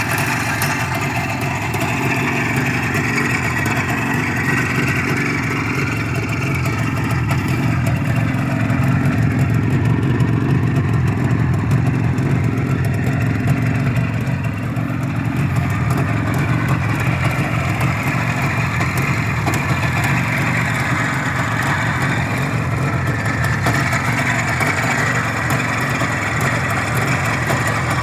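IZh Jupiter-3 motorcycle's two-stroke twin-cylinder engine, freshly run in, running steadily at idle, a little louder for a few seconds in the middle.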